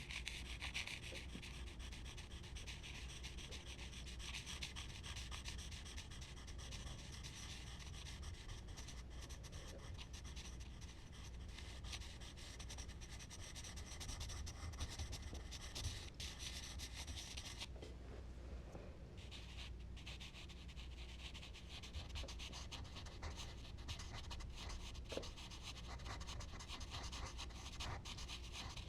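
Charcoal scratching and rubbing across smooth Bristol paper in quick, continuous strokes, pausing for about two seconds roughly two thirds of the way through.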